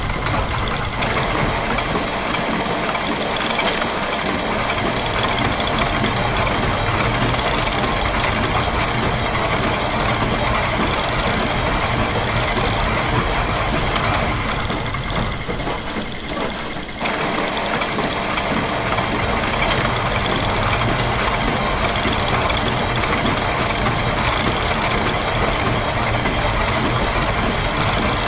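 Layered loops of factory machine sounds (gears, a press, clockwork springs, a ratchet and a sewing machine) mixed into one dense, continuous mechanical texture. The high clattering layer drops out for about three seconds midway, then comes back.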